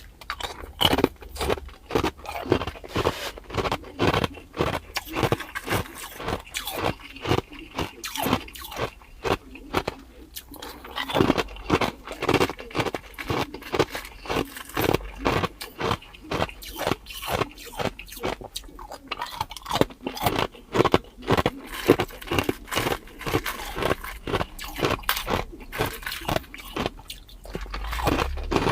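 Clear ice being bitten and chewed close to the microphone: a dense, irregular run of sharp crunches, several a second.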